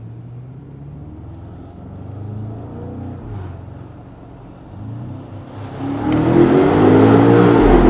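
BMW M5 Touring's V8 through a DCE catback exhaust, heard from the cabin while climbing: a low drone on light load, then from about five and a half seconds in it gets much louder and rises in pitch as the car accelerates, with the exhaust valves open giving a lot more rumble, easing slightly near the end.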